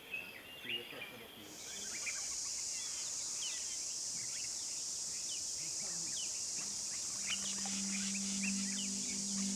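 Steady high-pitched insect buzzing that comes in abruptly about a second and a half in, with many short bird chirps over it. A low steady hum joins near the end.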